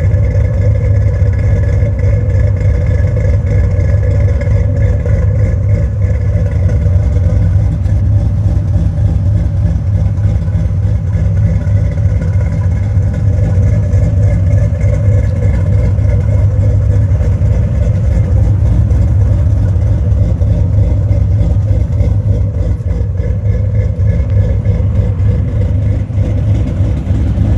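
1977 Ford Mustang Cobra II engine idling steadily through a custom exhaust: a 3-inch single pipe from the Y-pipe that splits into dual 2-inch tailpipes at the rear.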